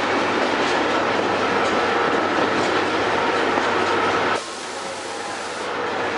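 Miniature park train running along its track, heard from the driver's seat: a steady rumble of rail noise with scattered clicks of the wheels over the track. About four seconds in, the sound drops suddenly, then slowly rises again.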